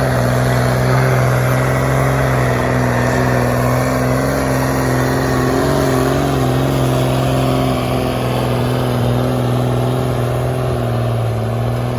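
Tractor engine running flat out under heavy load in a tractor pull: a loud, steady engine note that holds its pitch, wavering only slightly.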